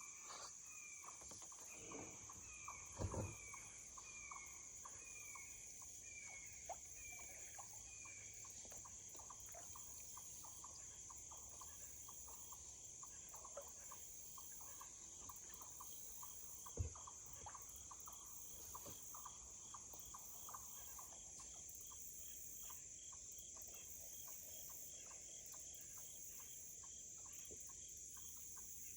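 Faint outdoor wildlife sounds: a steady high insect drone, with a bird repeating a short falling note about twice a second for the first eight seconds. A couple of soft knocks stand out briefly, about three seconds in and again past halfway.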